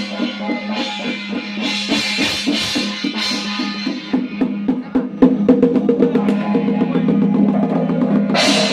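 Ceremonial percussion music: drums beat a steady pulse over a held low tone. A quick run of drum strokes comes about four to five seconds in, and a louder, brighter clashing begins near the end.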